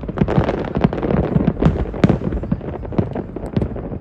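Fireworks display: a dense run of bangs and crackles, several a second, over a low rumble.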